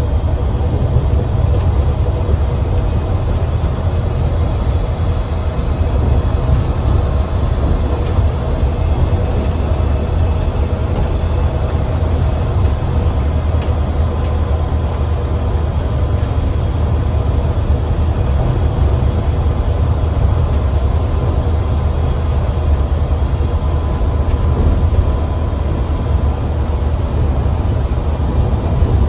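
Benz bus running steadily on the road, heard from inside the driver's cabin: a loud, even low engine and road rumble.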